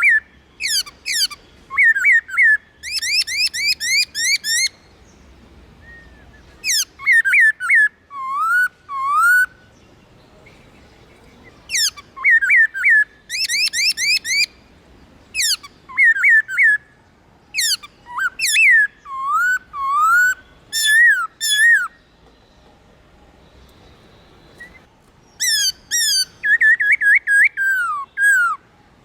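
Black-throated laughingthrush singing: bouts of loud, rapid whistled notes slurring up and down, several seconds each, broken by short pauses and a longer pause about three-quarters of the way through.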